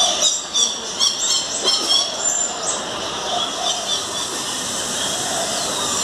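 Birds calling: a quick series of short high chirps and squeals over the first three seconds, one of them a brief high whistle, then a steady background hiss.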